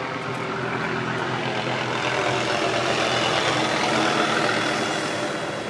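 Police helicopter flying low overhead, its rotor and engine noise swelling to a peak about four seconds in and then easing off as it passes.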